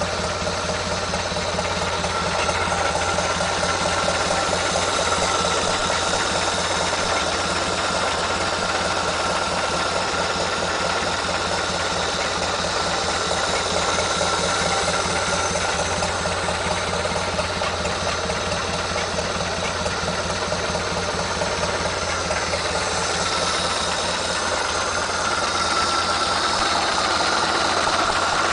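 GAZ-AA truck's four-cylinder flathead engine running steadily at low speed through its muffler.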